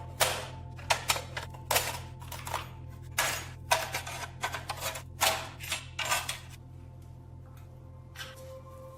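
Irregular metal clicks and taps, about a dozen over the first seven seconds, some with a short ring, from metal stove parts being handled and worked. A steady low hum runs underneath.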